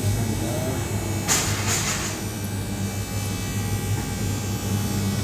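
A steady low hum, with two brief bursts of hissy noise about a second in.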